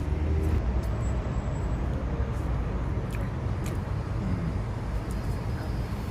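Steady low rumble of vehicle and road noise, with a few faint clicks.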